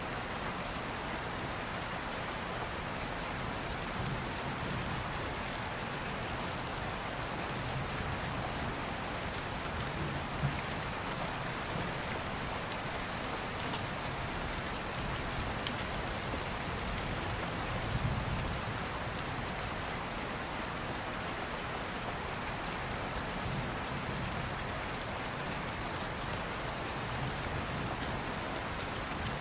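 Steady rain falling, with soft low rumbles of distant thunder about ten and eighteen seconds in. A few faint sharp clicks sound over the rain.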